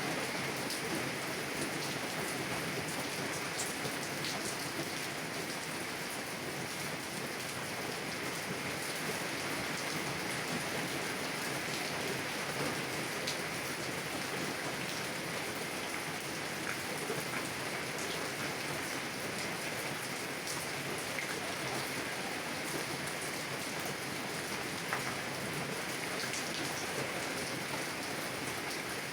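Heavy rain on a car, heard from inside: a steady hiss of rain with individual drops ticking against the window glass.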